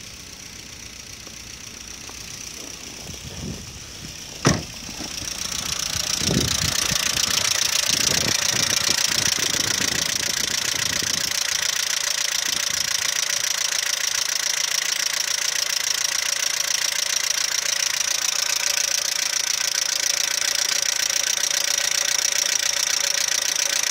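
Audi 80 B3 engine idling with a knock and clicking from the top end, which the owner takes for the hydraulic lifters; the engine was later found to have scored bearings from low oil pressure caused by a failing oil pump. A sharp click comes about four seconds in, and from about six seconds in the engine is louder and steady.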